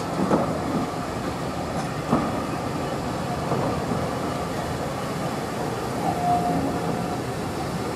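Heritage train's passenger coaches rolling along the platform, a steady rumble of wheels on the rails with a couple of sharp knocks and a brief squeal about six seconds in.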